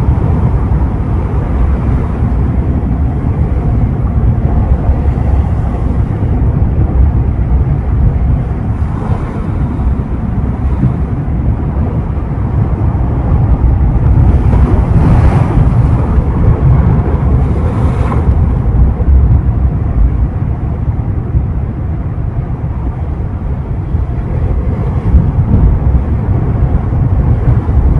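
Ocean waves breaking and washing on the shore in a steady rush, with a few louder breaks about a third and two-thirds of the way in. Wind buffets the microphone in a low rumble underneath.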